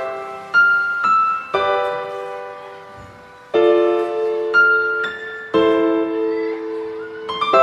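Slow instrumental piano music: soft chords and single notes struck about once a second, each ringing and fading, with a brief lull before a new chord about three and a half seconds in.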